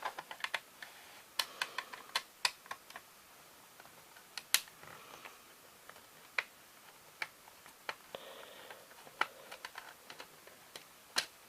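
Irregular small, sharp clicks and taps of plastic as the parts of a VHS cassette shell are handled and fitted together by hand.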